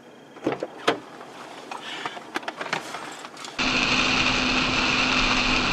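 A few sharp knocks and scattered clicks, then, about three and a half seconds in, an abrupt change to loud, steady car driving noise with a low hum.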